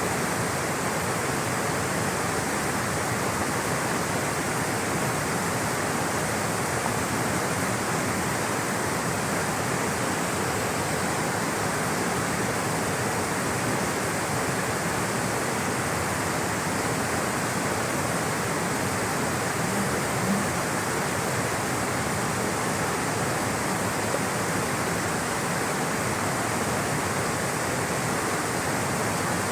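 Rushing, flowing water: a steady, even hiss that does not change.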